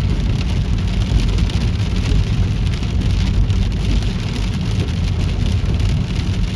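Heavy rain falling steadily on a car, a dense even patter over a low rumble, during a thunderstorm downpour.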